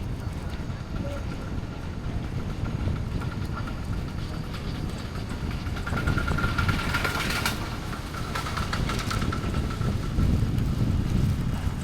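Bus engine and road noise in a steady low rumble, with a faint high whine that swells about six seconds in and fades again.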